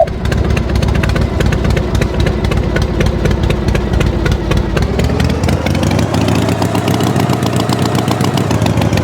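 Tractor engine running with a fast, even putter, its pitch rising about five seconds in and then holding steady.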